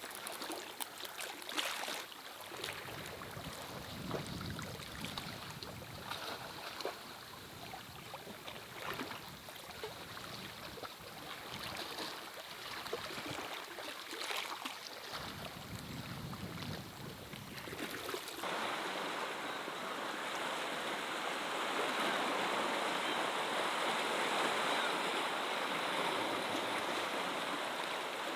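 Steady rushing water noise with many small taps and patters through the first part; about eighteen seconds in it changes abruptly to a denser, even rush.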